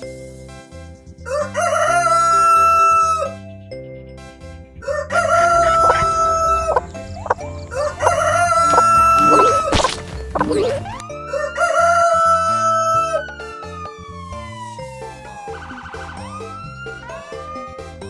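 A rooster crowing four times, each a long held call, over cheerful background music with a steady beat. Near the end a long falling whistle-like glide sounds.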